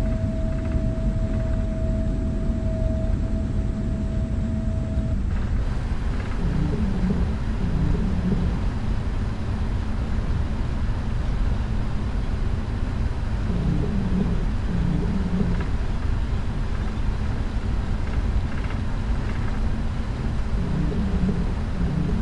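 Steady low rumble inside the cabin of a Boeing 777-300ER on the ground before take-off, its GE90 engines running at low power. A thin steady tone cuts off about five seconds in and the hiss grows brighter, and a short low warbling sound comes back about every seven seconds.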